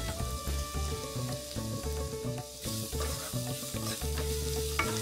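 Sliced onions, green chillies and curry leaves sizzling in hot coconut oil in a pan, stirred with a wooden spoon, the sizzle and stirring growing from about halfway. Background music with a steady bass line plays underneath.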